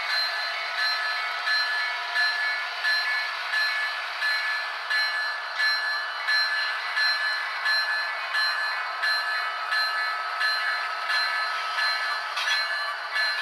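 Sound of an HO scale model diesel locomotive, played through a small speaker with no low end: engine noise under a bell that strikes about one and a half times a second.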